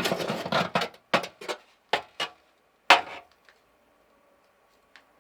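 Knocking and clattering of hard objects being handled: a dense run in the first second, then single knocks about once a second until about three seconds in. A faint steady hum follows.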